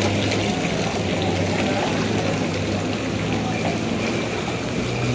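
Rain falling and floodwater running in the street, a steady wash of water noise with a low, even hum underneath.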